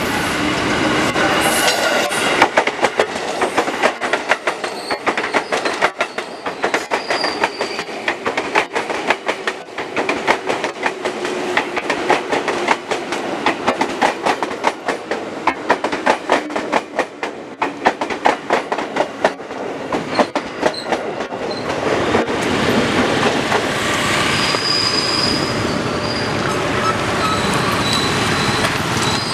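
Ex-JR 205 series electric commuter train passing close by, its wheels clacking rapidly over the rail joints with brief high wheel squeal. About 22 seconds in the clacking gives way to a steadier rumble.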